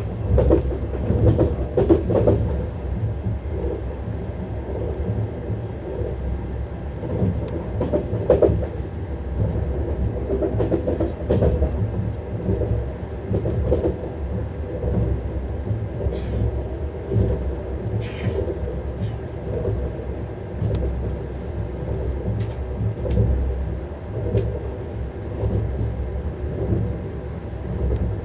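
Lastochka (Siemens Desiro RUS) electric train running, its wheels rumbling steadily on the rails with irregular clicks and knocks over rail joints, loudest near the start and about eight seconds in.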